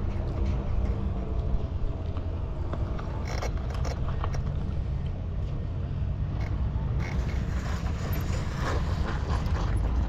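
Steady low rumble of wind and rolling noise while riding a bicycle, with a few faint clicks.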